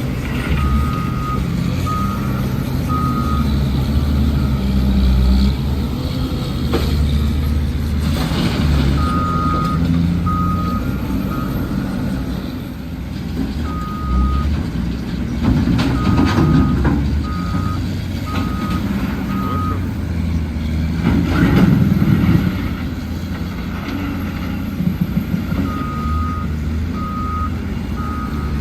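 A heavy truck's reversing alarm beeps in runs of single-pitch beeps, about one a second, with pauses between the runs, over the steady low running of its diesel engine. A few brief sharp noises cut through.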